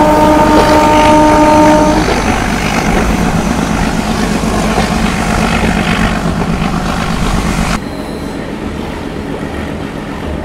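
Meter-gauge train: the locomotive horn sounds one steady blast of about two seconds, and then the train runs on with the noise of the moving coaches. About eight seconds in, the running noise drops suddenly to a quieter level.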